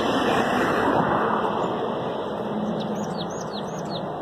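Steady passing road traffic, with repeated short high bird calls over it, several in quick succession near the end. The calls are taken for the anxious alarm calls of parent blackcaps whose nest has been destroyed.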